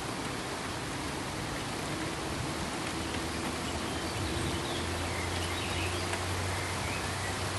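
Steady pink noise, an even hiss across all pitches, with a low steady hum coming in about halfway.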